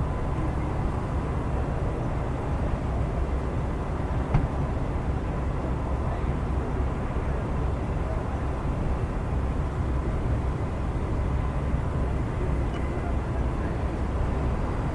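Jet airliner engines heard as a steady low rumble that neither rises nor falls, with a single click about four seconds in.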